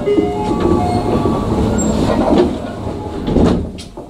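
Tokyu 9000 series electric train running on the rails, with rumble, clicks over the rail joints and short wheel squeals, heard from the cab.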